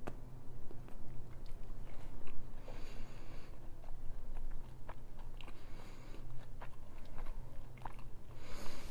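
A person taking a bite of multigrain seeded bread topped with cottage cheese and peach slices, then chewing with the mouth closed, with small irregular crunching clicks.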